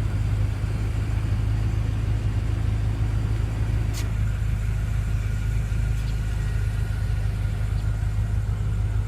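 2014 BMW M5 F10's twin-turbo 4.4-litre V8 idling, a steady low rumble, with a single sharp click about four seconds in.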